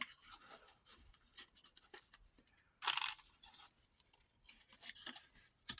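Light handling noises: scattered faint clicks and taps, with one brief rustle about three seconds in.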